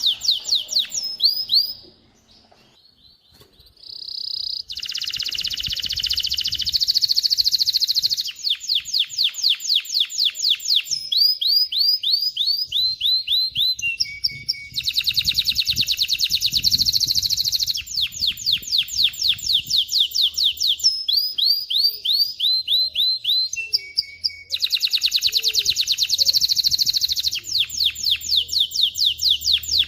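Male domestic canary singing: long fast trills of rapidly repeated high notes, one run after another, with a brief pause about two seconds in.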